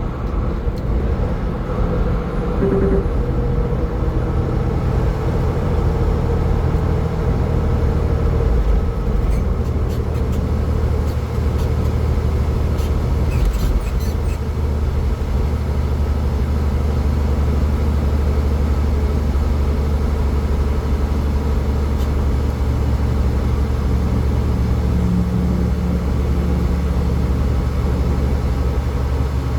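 A car driving at highway speed: steady, low road and engine rumble, with a few faint ticks around the middle.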